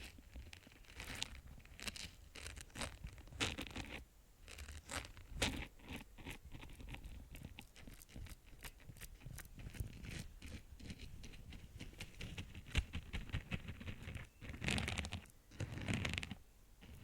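ASMR tapping and scratching close to the microphone: many quick, sharp taps, fast clusters of them in the middle, then louder scratchy rubbing near the end.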